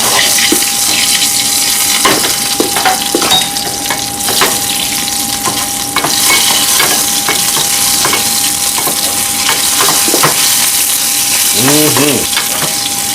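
Battered cicadas sizzling and crackling as they fry in olive oil in a pan.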